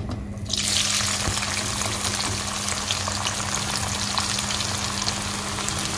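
Sliced bitter gourd going into hot mustard oil in a wok: a sizzle breaks out about half a second in and carries on steadily as the slices fry.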